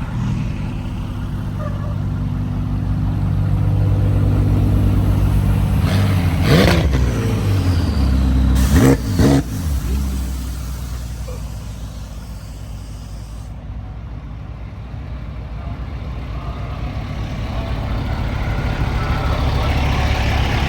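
Car engines idling, with a quick rev blip about six and a half seconds in and two more blips in quick succession around nine seconds in.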